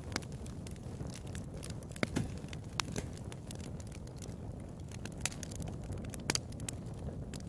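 Wood fire crackling in a fireplace: a steady low rumble of burning with sharp pops scattered through, a cluster about two seconds in and another loud pop a little past six seconds.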